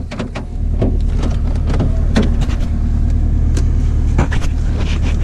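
Car interior noise while driving: a steady low engine and road rumble, with scattered sharp clicks and taps over it.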